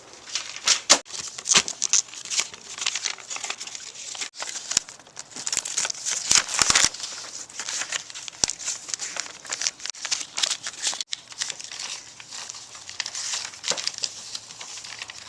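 A sheet of paper being handled and folded, giving an uneven run of rustles and crinkles with sharper crackles and snaps among them.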